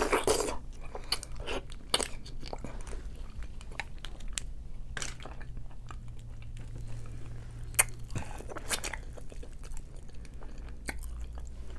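Close-miked mouth sounds of a person eating seafood-boil food: chewing and biting, with sharp wet clicks and crunches now and then, the strongest just at the start and about eight seconds in.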